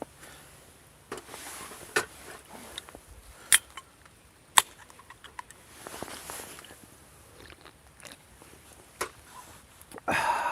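A person eating: chewing, with scattered sharp clicks and brief rustles of food and utensils being handled, and a louder burst of rustling noise near the end.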